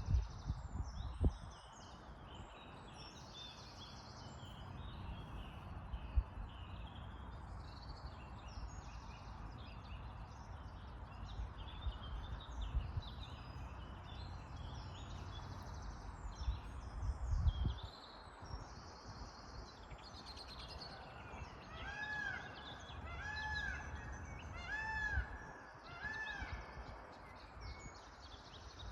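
Several songbirds chirping and singing over a steady outdoor background hiss. In the second half, one bird gives four clear, arched whistled notes about a second apart. Now and then a low thump or rumble is heard.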